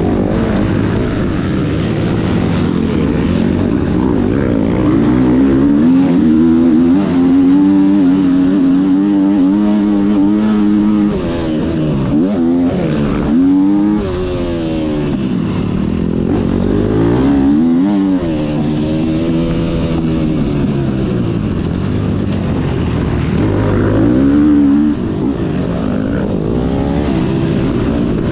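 Motocross motorcycle engine at race pace, its pitch rising and falling over and over as the throttle opens and shuts and the gears change, with sharp dips off the throttle about twelve, fourteen, seventeen and twenty-five seconds in.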